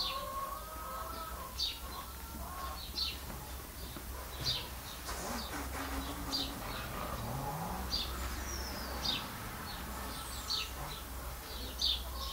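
A small bird chirping repeatedly: short high chirps about every second and a half, with a few quick falling calls among them, over a low steady hum.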